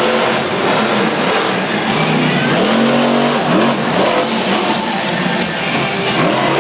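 Grinder monster truck's engine running hard at freestyle, revving up and down with rising and falling pitch, loudest swings about two to four seconds in, over a dense wash of noise.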